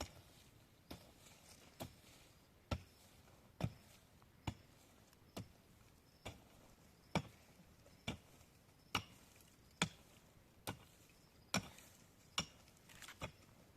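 A steady series of sharp chopping strikes, about one a second, each a single knock.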